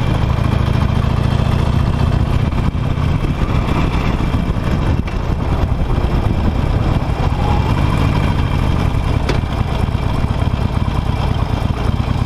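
Harley-Davidson Nightster's V-twin engine running steadily as the motorcycle is ridden.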